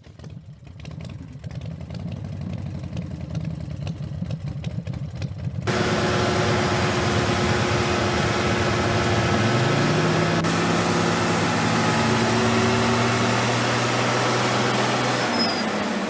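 Diesel truck engine running, its fast even firing rising in level over the first few seconds. About six seconds in the sound jumps abruptly to a louder, noisier drive sound, in which the engine note rises about ten seconds in and then holds steady.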